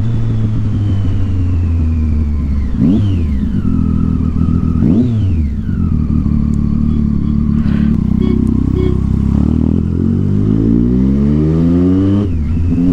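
Triumph Street Triple 675's inline-three engine running loud through an aftermarket Yoshimura exhaust under a moving rider. There are two sharp rev spikes about three and five seconds in. Later the revs climb steadily under acceleration and drop suddenly near the end as a gear is changed.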